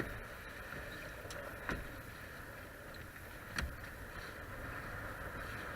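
Steady rush of water along a Hobie Cat catamaran's hulls under sail, with two brief sharp knocks, one just under two seconds in and another a couple of seconds later.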